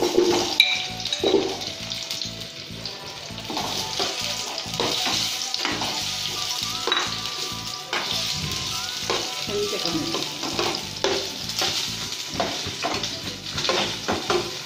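Boiled, peeled potatoes sizzling in hot coconut oil in a nonstick pan, with repeated knocks and scrapes of a slotted spatula pushing them around.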